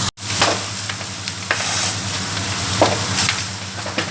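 A burning old wooden house crackling steadily, with sharp pops of burning timber every second or so. A steady low hum runs underneath. The sound drops out for an instant just after the start.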